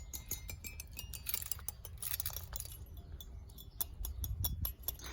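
A parrot pecking and tugging at a hanging metal chime toy: a run of quick clicks and small metallic clinks, with a faint ringing tone near the start.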